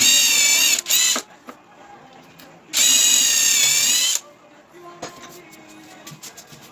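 A handheld power tool's electric motor whining in short trigger bursts: one of under a second near the start, a brief second one, then about a second and a half in the middle. Faint clicks and handling noises follow.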